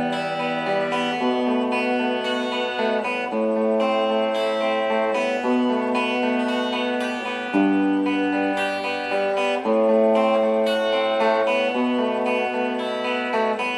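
Acoustic guitar playing an instrumental song intro, with sustained chords changing every second or two.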